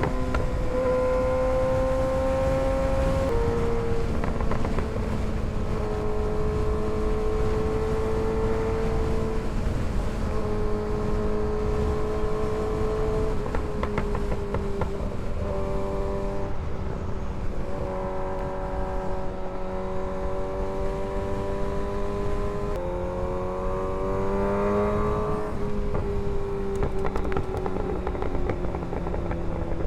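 Kawasaki ZX-6R 636 inline-four engine under way, holding a steady pitch for a few seconds at a time and then stepping to a new one as the throttle and gears change, climbing briefly near the end before dropping, over constant wind rush.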